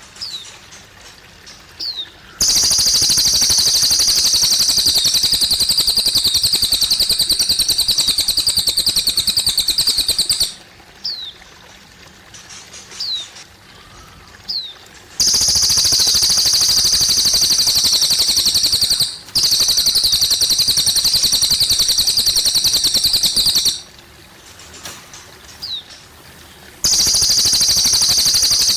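A cililin bird singing a high, very rapid trill in long bursts of several seconds, four times, with short downward chirps in the pauses between. Water trickles faintly underneath.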